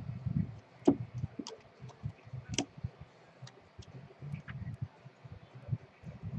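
Baseball trading cards being handled and flipped through: irregular sharp clicks and taps of card edges, loudest about two and a half seconds in, over soft low thuds.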